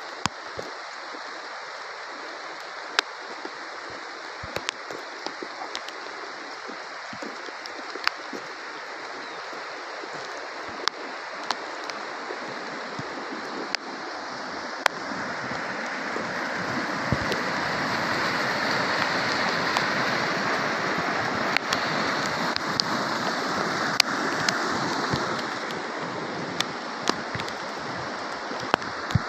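Heavy rain pouring down with a steady rushing hiss and scattered sharp drop hits on a nearby surface. The downpour swells to its loudest about halfway through, then eases off near the end.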